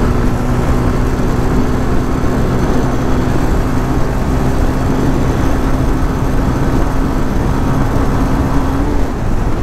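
Honda CB300R's single-cylinder engine running steadily at road speed, its tone holding level and easing off a little near the end, under heavy wind rush on the microphone.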